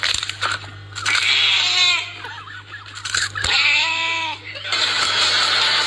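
A cat meowing twice, two long drawn-out calls that rise and fall in pitch, about two seconds apart. A steady rushing noise sets in near the end.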